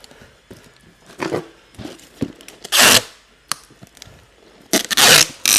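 Packing tape pulled off the roll in short rasping rips while a parcel box is taped shut: a small pull about a second in, then two loud ones near three and five seconds, with light handling knocks between.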